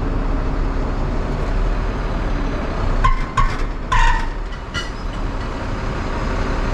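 Roll-off truck's engine running steadily while the dumpster is being lined up and pulled onto the frame. About three to five seconds in come four short, high-pitched squeals.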